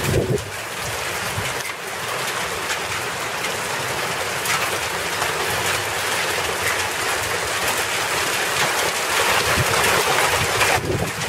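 Hailstorm: hail and rain pelting down in a dense, steady patter of many small impacts, growing a little louder near the end, with wind rumbling on the microphone underneath.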